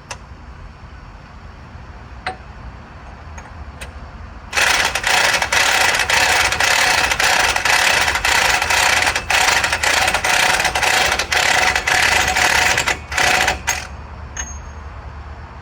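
Impact wrench hammering in bursts for about nine seconds, starting about four and a half seconds in with a couple of short breaks, as it runs down the new CV axle nut on a Silverado 2500 HD front axle. A few light clicks of tools come before it.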